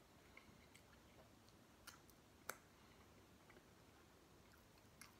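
Near silence with a few faint mouth clicks of a person chewing food, the clearest about two and a half seconds in.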